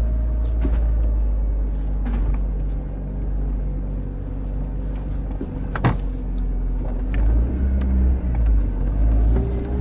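Steady low rumble like vehicle noise, with scattered light clicks and one sharper click about six seconds in.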